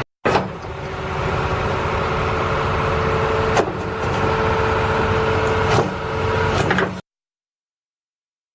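John Deere 250G excavator running and working its hydraulics, a steady engine sound with a held whine that breaks off at sharp clicks twice; the sound cuts off abruptly near the end.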